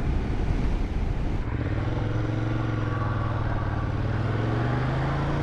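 Motorcycle engine pulling away and accelerating in first gear, its pitch rising steadily.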